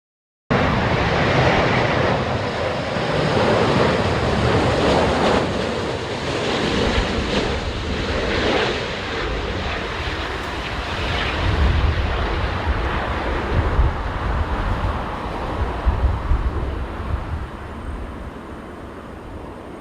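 Jet engine noise from an Airbus A350-900 on a crosswind landing approach: a loud, steady rush that slowly fades toward the end. Strong gusty wind rumbles on the microphone in the second half.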